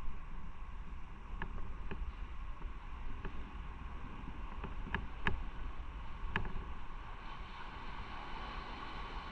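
Motorcycle riding along, its engine rumble mixed with wind noise on the mounted microphone, with a few short sharp clicks over the first several seconds.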